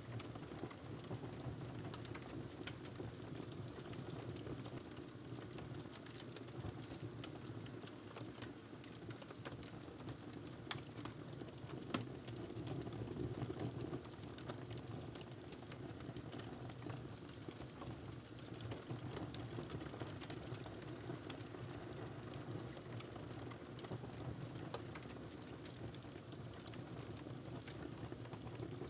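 Fireplace fire crackling, with irregular small pops and snaps over a steady low rumble; one sharper pop about twelve seconds in.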